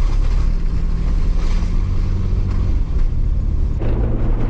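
Jeep Wrangler LJ's engine running steadily while driving on a snowy trail. About four seconds in, the engine note changes to a stronger, steadier hum.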